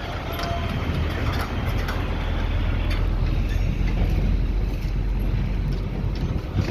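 Dump truck's diesel engine running with a steady low drone that grows louder over the first couple of seconds, then holds, with scattered clicks and rattles over it.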